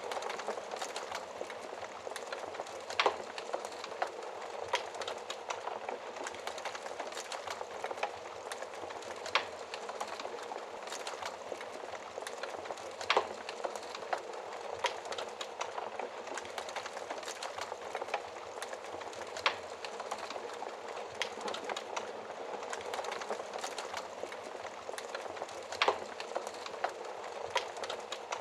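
Wood fire burning in a fireplace: a steady hiss and crackle with many small snaps, and sharper louder pops about every few seconds.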